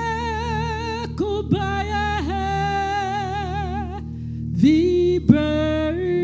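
Gospel music: a singer holding long notes with vibrato, sliding up into each one, over steady sustained backing chords.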